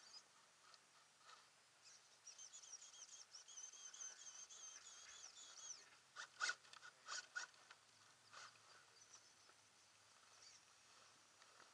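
Faint outdoor quiet in which a bird sings a high, wavering, warbling song for about four seconds, followed by a few sharp clicks.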